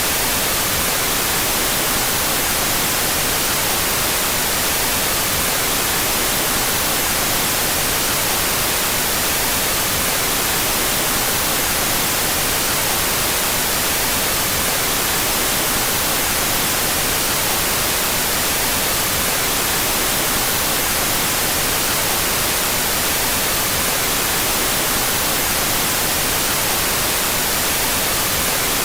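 Steady synthetic white noise, a constant even hiss with more energy in the high end and no change throughout, played with the stereo channels out of phase.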